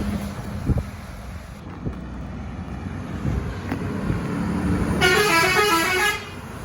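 Truck engine and road noise, then about five seconds in a truck's musical air horn plays a short tune of quick stepping notes lasting about a second.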